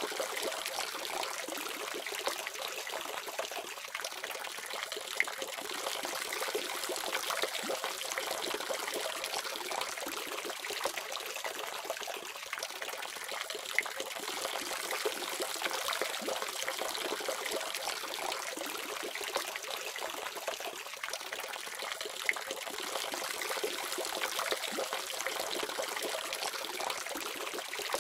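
Water running steadily from a tap, an even splashing stream with small spatters.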